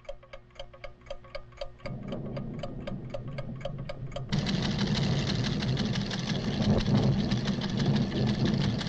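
Cartoon sound effect of measuring instruments ticking rapidly and evenly, about four ticks a second. A low rumble comes in about two seconds in, and about four seconds in a loud rumble of the volcano's tremors drowns out the ticking.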